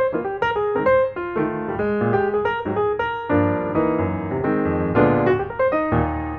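Background piano music: a melody of quick notes over sustained bass notes.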